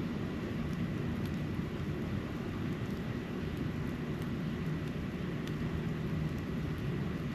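Steady low outdoor rumble recorded during snowfall, even in level throughout, with a few faint ticks around a second, three seconds and five and a half seconds in.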